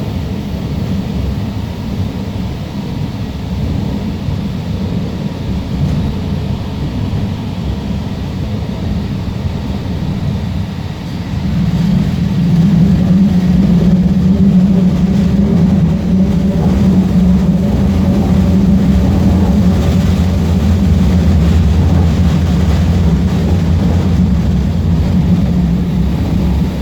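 Alstom Citadis Spirit light-rail train running between stations: steady rolling and motor noise that grows louder about halfway through and settles into a steady hum.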